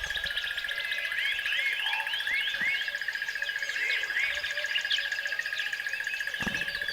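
A chorus of small animal calls: a steady, high, fast-pulsing trill throughout, with many short chirps that rise and fall, several a second, over it.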